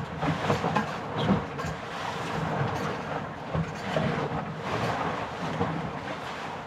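Strong gusty wind buffeting the microphone, a continuous rumbling rush that swells and drops irregularly.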